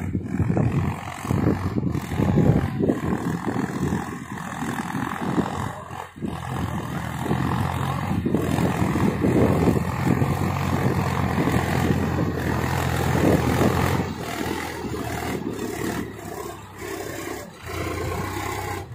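Solis 4515E tractor's diesel engine running steadily under load while pulling a cultivator, with a brief dip in loudness about six seconds in.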